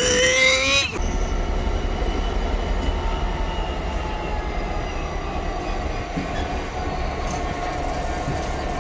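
Train running past, a steady low rumble with faint high whines. At the very start a loud pitched tone slides down and holds briefly before cutting off.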